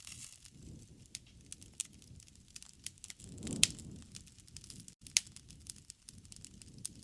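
Wood campfire crackling, with many sharp pops and snaps over a soft low rumble of the flames; the loudest pop comes about halfway through.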